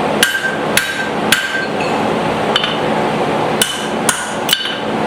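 Blacksmith's hand hammer striking steel at the anvil: about eight sharp blows in uneven groups, each with a short bright metallic ring. Under them runs the steady rush of a shop fan.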